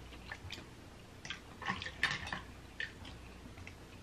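Wet mouth sounds of someone eating butter-coated crab meat: soft, scattered smacks and squelches, a few to the second, with short pauses between.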